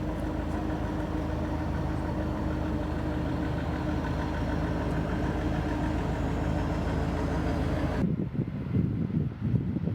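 A steady engine-like mechanical hum with several held tones. About eight seconds in it cuts off abruptly and gusts of wind buffeting the microphone take over.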